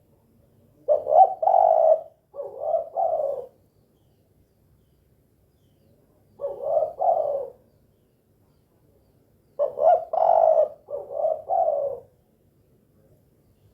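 Spotted dove (tekukur) cooing: three phrases of low coos, the first and last of several notes each and the middle one shorter, with pauses of a few seconds between.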